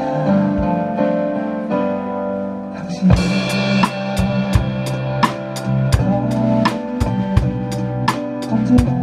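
Drum kit played along to a worship-song backing track: held keyboard chords for about the first three seconds, then the drums come in with a loud hit and keep a steady beat of kick, snare and cymbals over the band.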